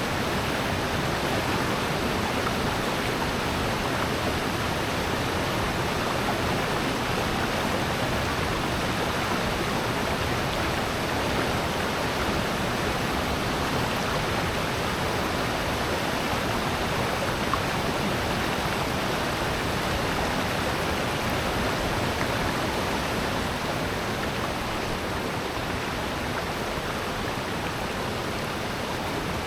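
Rushing water of a valley stream and waterfall: a steady, even rush with no change.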